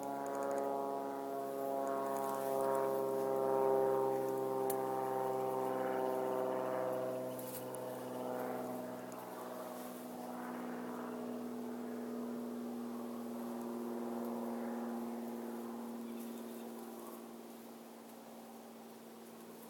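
Bees buzzing at the hive: a steady, many-pitched drone of wingbeats that drifts slowly in pitch, louder in the first half and easing off after about nine seconds.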